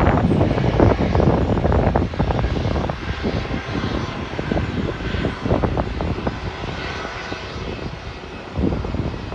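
Airliner engines roaring and slowly fading as the aircraft moves away, with wind buffeting the phone's microphone in gusts.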